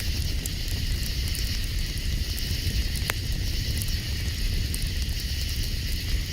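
Campfire crackling, with a few sharp pops, the clearest about three seconds in, over a steady high hiss and a low rumble.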